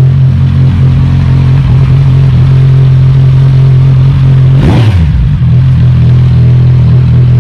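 Kawasaki Z1000 inline-four motorcycle engine idling loud with both stock mufflers removed. About four and a half seconds in, a single short throttle blip rises and falls before it settles back to idle.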